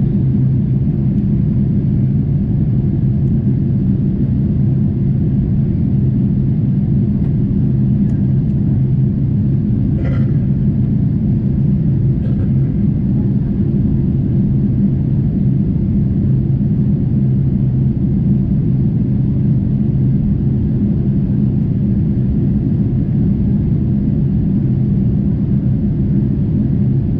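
Steady low drone inside the cabin of a Boeing 747-8 in flight: engine and airflow noise at an even level.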